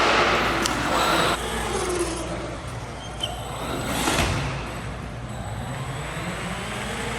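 Traxxas Hoss 4x4 VXL radio-controlled truck being driven, its brushless electric motor whining and its tyres rushing over the ground. It is loudest for about the first second and a half, with another surge about four seconds in.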